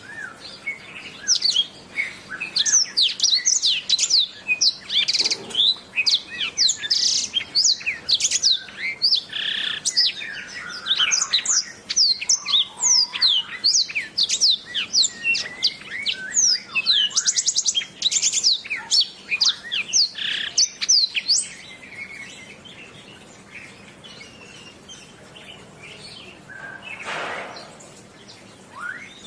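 Domestic canary singing a fast, dense song of rapid chirps and trills, most of it high-pitched. The song stops about two-thirds of the way through, and a brief soft rushing noise follows near the end.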